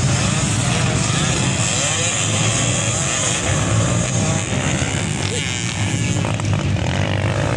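Dirt bike engines running and revving, the pitch rising and falling.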